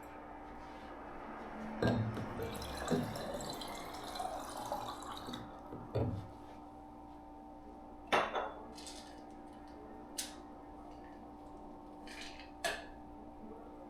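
Water poured into a glass for a few seconds, followed by several clinks and knocks of glass and containers being handled and set down, over a steady background hum.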